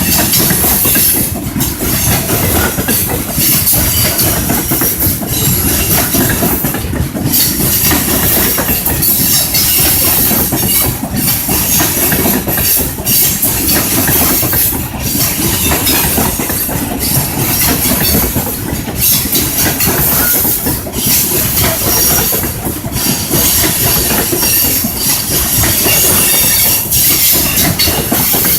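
Train cars running on the rails: a loud, steady rumble and hiss, with a pattern that dips and returns about every two seconds.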